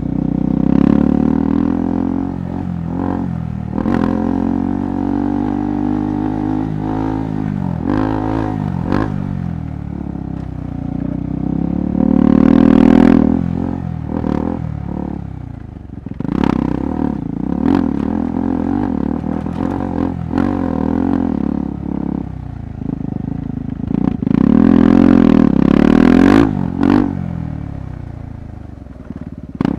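KTM 390 Adventure's single-cylinder engine running on a rough off-road trail, its pitch rising and falling with the throttle, with two louder surges of revving near the middle and toward the end. Frequent sharp knocks and clatter from the bike over the rough ground.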